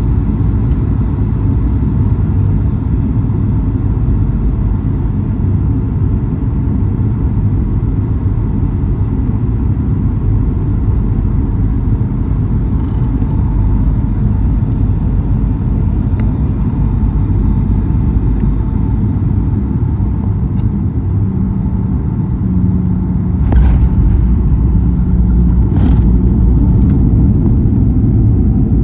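Steady low rumble of engine and airflow noise inside a Boeing 737-800 cabin in flight. Near the end, two short knocks come through and the rumble grows a little louder, with a low steady hum added.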